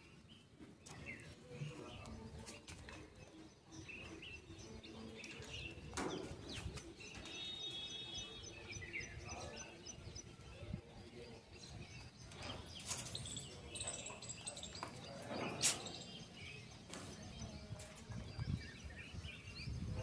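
Scattered bird chirps and short calls, including one held call and a quick run of high pips about eight seconds in, with a few sharp knocks.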